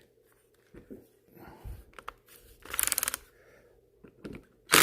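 Flexible black discharge pipe and rubber coupler being handled and pushed together: scattered rubbing and crinkling, with a brief rattling burst about three seconds in.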